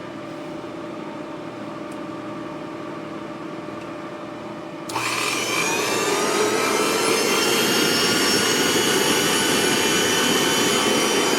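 Dumore tool-post grinder running on a lathe with a steady hum. About five seconds in, the wheel meets the thrust bearing washer and a loud grinding hiss starts, with several whining tones that rise slightly in pitch.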